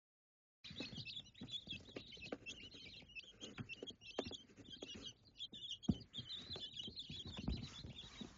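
Small birds chirping: many short, high chirps in quick succession, mixed with scattered light taps and knocks. It starts abruptly about half a second in.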